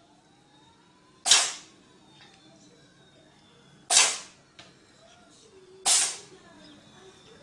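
Three sudden hissy bursts of noise, each fading out within about half a second: one about a second in, one near the middle and one near the end.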